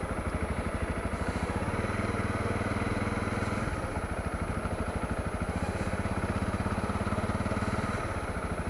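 Honda CRF250L's single-cylinder four-stroke engine running steadily at low revs, with a fast, even exhaust beat.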